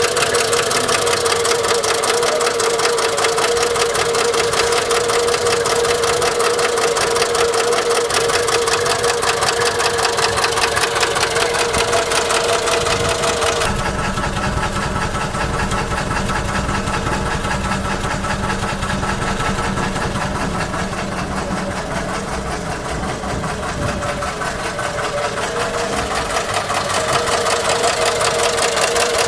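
Citroën GS 1300's air-cooled flat-four engine running with a fast, even ticking knock, the bad noise that marks something wrong in the engine. About halfway through the sound turns deeper, the low end stronger and the high ticking fainter.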